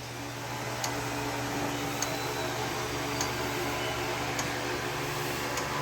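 Milking machine running: a steady vacuum-pump hum with a light, regular click from the pulsator about once every second and a bit.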